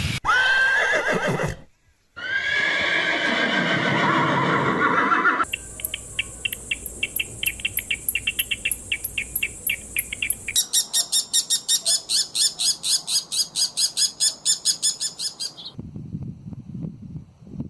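Two long animal calls in the first five seconds, each starting high and sliding down in pitch, followed by about ten seconds of rapid, high-pitched chirping pulses repeating about four to five times a second.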